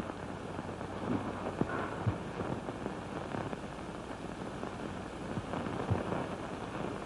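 Steady hiss and crackle of an old optical film soundtrack, with a couple of faint low knocks.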